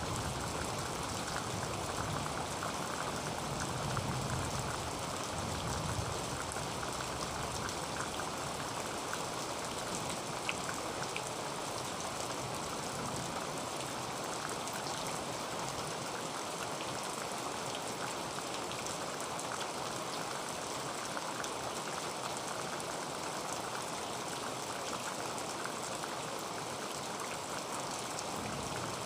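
Heavy rain falling on a tin roof: a steady, dense patter of drops on metal. A low rumble underneath dies away in the first few seconds.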